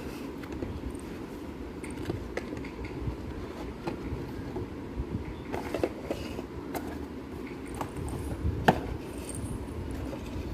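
Scattered clicks and light knocks from a toy refrigerator and its packaging being handled, over a steady low rumble. The sharpest knock comes late on.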